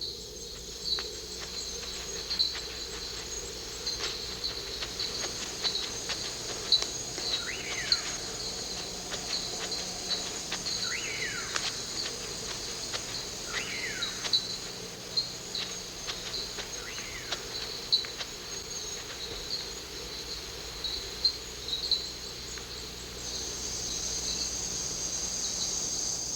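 Tropical rainforest insect chorus: a dense, steady high-pitched buzz of crickets and katydids with regular chirps about twice a second. A few short sliding calls from some other animal rise above it now and then, and the high buzz swells near the end.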